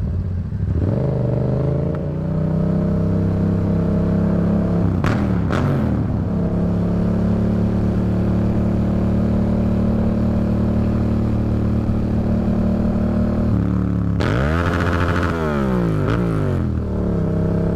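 Vehicle engine running steadily under way, its pitch dipping and rising again about five seconds in and once more near the end.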